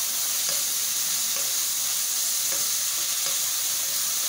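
Chicken pieces frying in oil and ginger-garlic paste in a wok, a steady sizzle, with a metal spoon stirring them and scraping the pan a few times. The chicken has just turned white and is being fried on so its raw smell cooks off.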